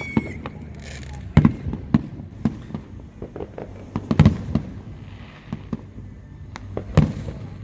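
Fireworks show going off at a distance: irregular sharp bangs, with a quick cluster of bursts about four seconds in and a loud one near the end.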